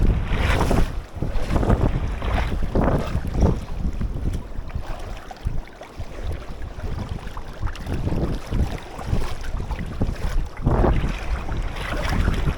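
Wind buffeting the microphone, a deep uneven rumble with several louder surges.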